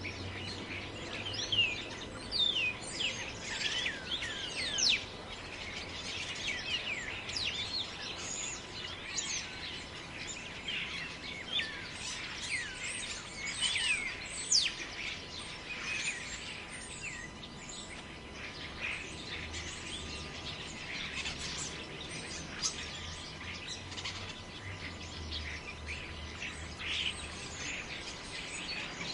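Several birds calling at once in a dense chorus of short, quick chirps, many sweeping down in pitch, over a steady background hiss. The calls are thickest in the first half and thin out later.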